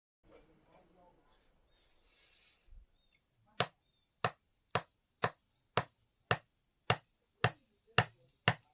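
Hand hammer blows in a blacksmith's workshop: after a quiet stretch, about ten sharp, evenly spaced strikes, roughly two a second, beginning a few seconds in.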